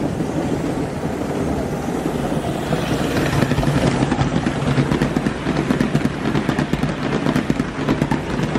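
Aster 'Duchess of Atholl' live-steam model locomotive running past, with a steady rumble and, from about three seconds in, rapid clicking beats that fade near the end.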